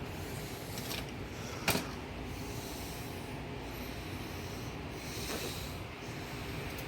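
Handling sounds from an unplugged plastic box fan being moved about: two light knocks about a second and nearly two seconds in, the second the sharpest, and a soft rustle near the end, over a steady low background noise.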